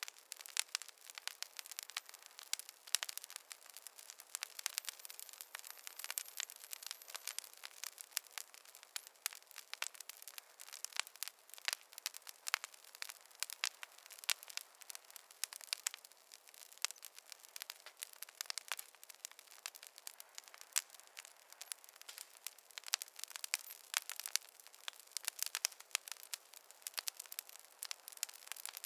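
Wood campfire crackling: a steady run of irregular sharp snaps and pops over a soft hiss.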